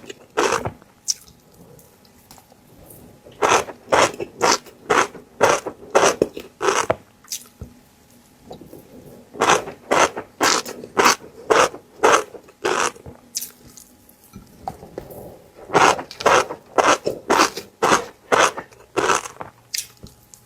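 Close-miked chewing of fish roe: crisp, crunching chews at about two a second, in runs of a few seconds with short pauses between.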